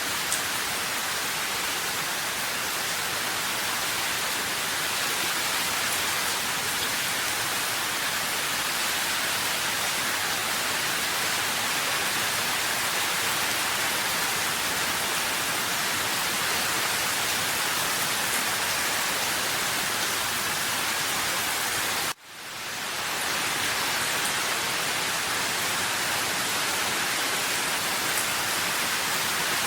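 Steady rain hiss at an even level. About two-thirds of the way through it cuts out for an instant and fades back in within about a second.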